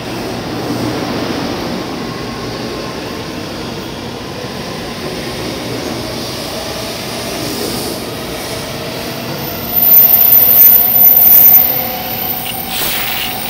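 N700A-series Shinkansen train pulling out and accelerating past at close range: the rolling noise of the cars, with the traction motors' whine slowly rising in pitch. About ten seconds in, a louder rush with a high hiss comes up for a couple of seconds.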